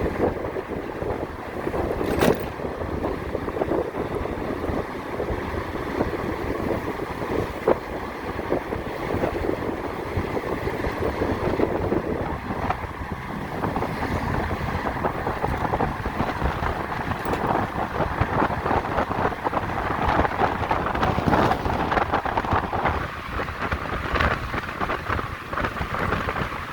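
Wind rushing over the microphone while riding an electric motorcycle in traffic, with road and traffic noise and no engine sound. Two sharp knocks stand out, about two seconds in and again near eight seconds.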